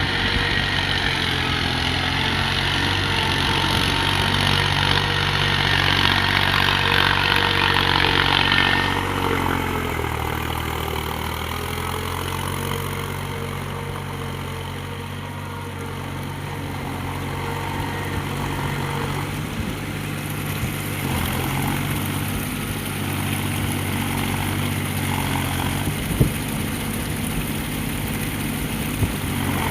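Mahindra tractor's diesel engine running steadily, with a louder, hissier stretch in the first nine seconds that stops suddenly, after which the engine sinks lower for a few seconds and then picks up again. A single sharp knock comes near the end.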